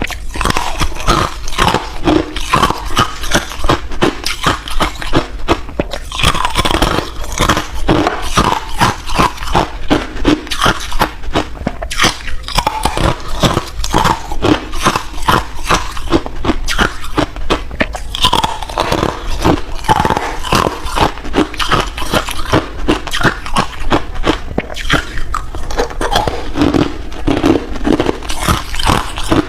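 A person biting and chewing hard ice, a continuous run of rapid, loud crunches.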